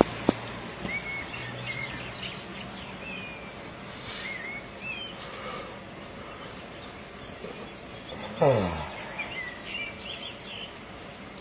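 Outdoor background noise with small birds chirping now and then. About eight and a half seconds in, the loudest sound: a brief pitched sound that drops steeply in pitch.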